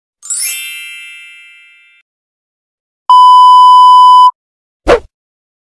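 A string of stock sound effects: a bright bell-like ding that rings and fades over about two seconds, then a loud steady censor bleep held for just over a second, then a very short swish that falls in pitch.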